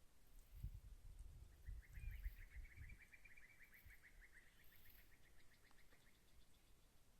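A small bird singing a faint, rapid trill of evenly spaced notes, about six to seven a second, that lasts several seconds. Low dull thumps come in the first few seconds.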